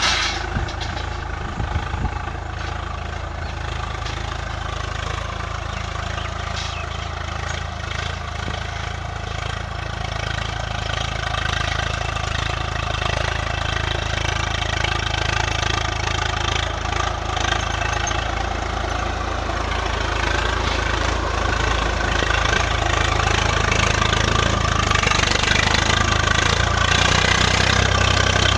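Tractor diesel engine running steadily, growing gradually louder over the second half. A few sharp clicks come in the first two seconds.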